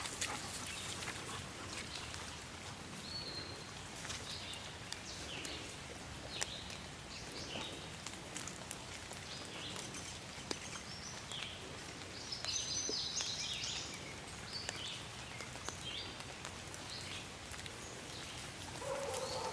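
Quiet outdoor ambience with small birds chirping here and there, in short high calls, with a busier flurry of chirps a little past the middle.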